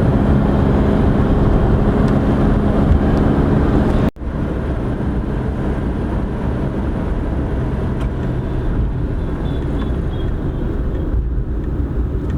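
A moving road vehicle, heard from inside while travelling: a steady engine hum and road rumble. The sound drops out abruptly for a moment about four seconds in, then the rumble carries on steadily.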